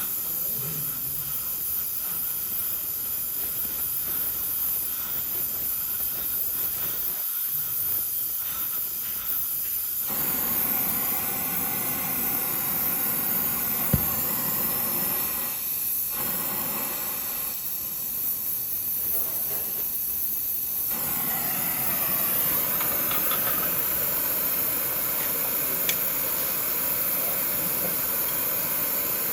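A steady hiss, with one sharp click about halfway through.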